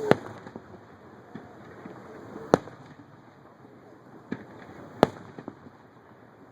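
Aerial fireworks shells bursting: three loud bangs about two and a half seconds apart, with a few softer pops in between.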